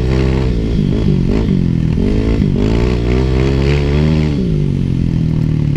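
Motorcycle engine running hard, its revs rising and falling several times as the throttle is opened and eased off.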